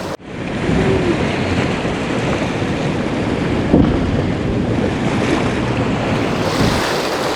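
Steady rushing of breaking waves and churning sea water, with wind buffeting the microphone. The sound cuts out for an instant at the very start.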